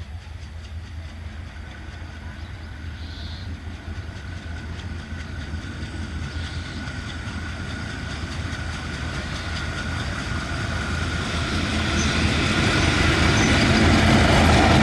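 Diesel locomotive hauling a long passenger train as it approaches: the engine's low drone and the train's running noise grow steadily louder throughout.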